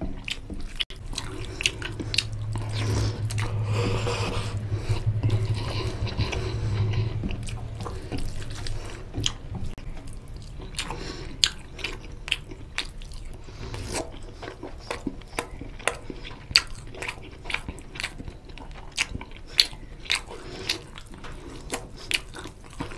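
Close-miked wet chewing and lip-smacking of oily mutton curry and rice eaten by hand, with many sharp wet mouth clicks. The sound is denser and louder from about two to eight seconds in.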